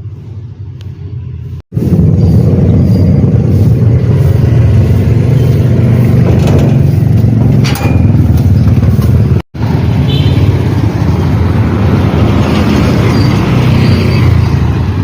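Loud, steady street-traffic rumble of passing motorcycles and cars, heaviest in the low end. It breaks off for an instant twice, about two seconds in and about halfway through.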